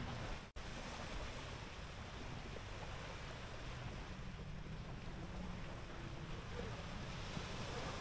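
Surf washing onto the beach with wind buffeting the microphone: a steady rush of noise. The sound drops out for an instant about half a second in.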